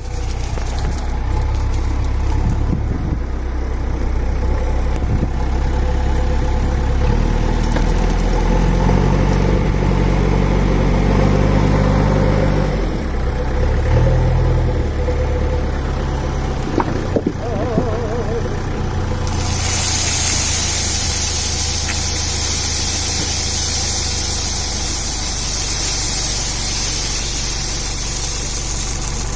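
Borewell drilling rig's engine running under load while casing pipe is driven, its pitch shifting up and down in steps. About two-thirds of the way through, a loud steady hiss starts suddenly on top of it.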